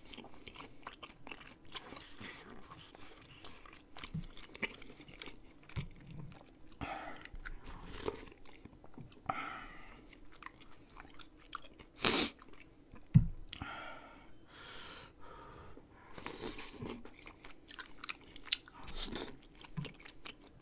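Close-miked eating of rice cake and dumpling soup: steady chewing with many small wet mouth clicks, a few short slurps from a spoon, and one sharp knock a little past the middle.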